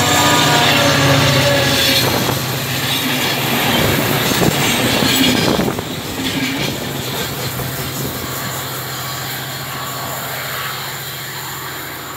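Diesel train passing close by: a steady low engine hum under heavy wheel-on-rail noise with some high wheel squeal, loudest in the first half and easing off about halfway through.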